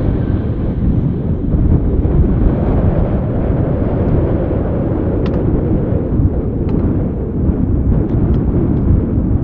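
Steady low rumble of a landing airliner's jet engines.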